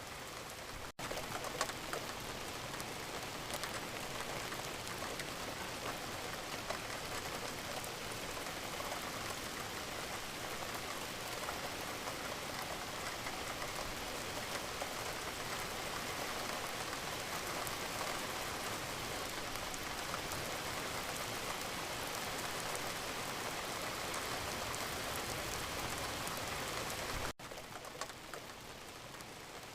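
Wood fire crackling and hissing steadily, with many small snaps. It is interrupted by a momentary cut about a second in and again near the end.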